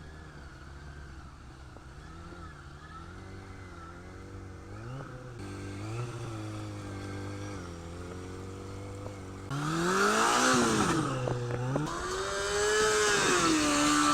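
Kawasaki motorcycle engine running at low revs with small throttle blips, then revved hard, its pitch swinging up and down, for the last third.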